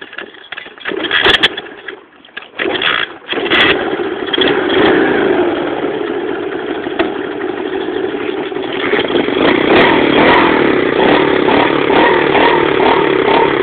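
Pit bike's Loncin single-cylinder four-stroke engine being started. A few short sputters come in the first three seconds, then it catches and runs steadily, getting a little louder from about nine seconds in.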